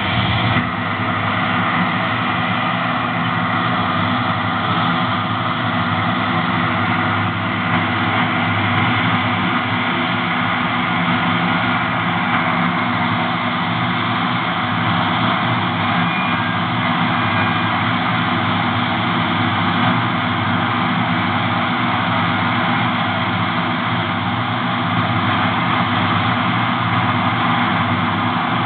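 Large farm machine's diesel engine running steadily at a constant speed.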